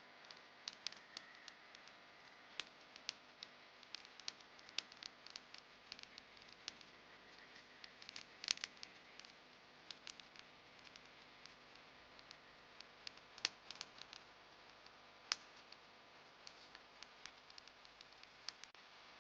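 Wood campfire crackling: irregular sharp pops and snaps over a faint steady hiss, a few pops much louder than the rest.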